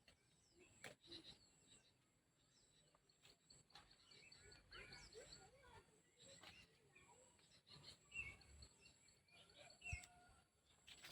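Faint, scattered bird chirps over quiet background noise, with a few soft clicks.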